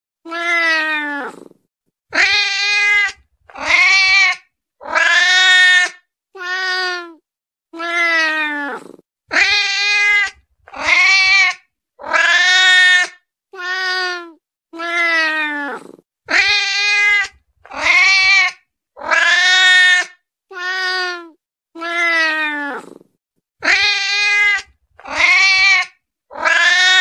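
A hungry cat meowing over and over, about twenty meows in quick succession, each lasting around a second with short gaps between, many dropping in pitch at the end.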